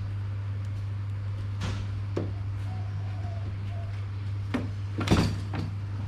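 Several short knocks and clatters of parts being handled, the loudest about five seconds in, over a steady low hum.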